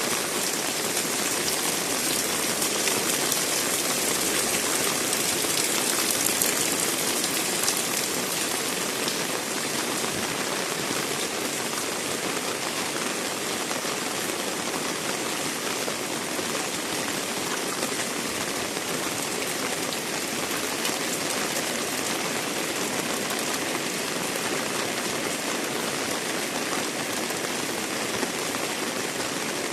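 Heavy rain pouring down, a steady hiss of drops splashing on wet surfaces, a little louder in the first several seconds.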